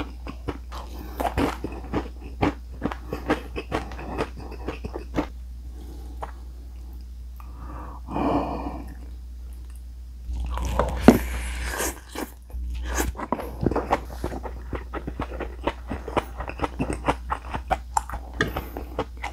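A person chewing and biting crunchy food close to the microphone, with many quick crunches. There is a short lull about six seconds in and a louder, noisier stretch of chewing around ten to twelve seconds in.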